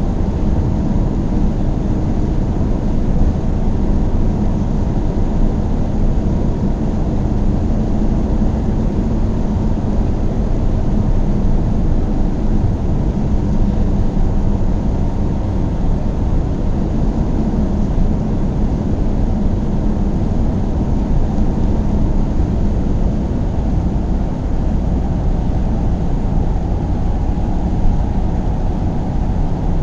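Car driving steadily: the engine and tyres on the road make a steady low rumble that does not change.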